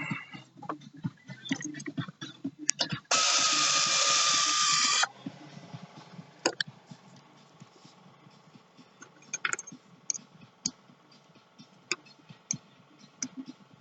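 A power tool runs in one loud, steady burst of about two seconds, a few seconds in. Scattered clicks and knocks of tools and metal engine parts come before and after it.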